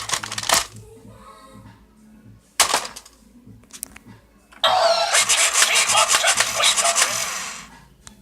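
Matchbox Stinky the Garbage Truck toy making a harsh, rasping noise. One burst cuts off about half a second in, a click follows a couple of seconds later, and a second, longer rasping burst lasts about three seconds near the end.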